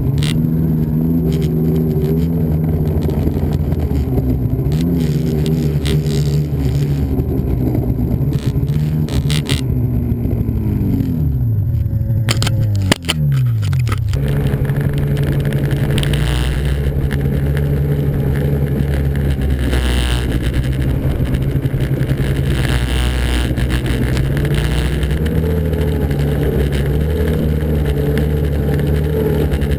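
Snowmobile engine running at a steady pitch, winding down with a falling pitch about twelve seconds in, then running steadily again.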